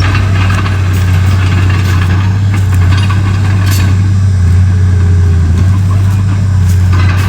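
Komatsu D31P bulldozer's diesel engine running steadily, a deep, even drone with a few faint clicks over it.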